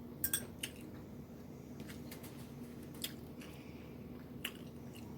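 Close-up eating sounds of a person chewing green beans, with wet mouth noises and a few sharp clicks over a faint steady low hum.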